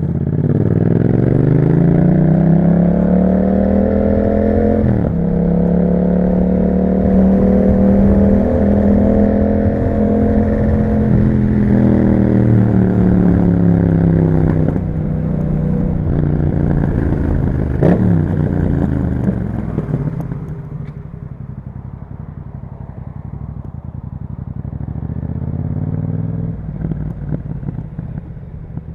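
Yamaha MT-07's parallel-twin engine through an Akrapovic exhaust, pulling hard with the engine note climbing, dropping sharply at an upshift about five seconds in and again at further gear changes. Near the middle the rider rolls off and the note falls as the bike slows; it stays quieter for the last several seconds. A sharp click sounds once past the middle.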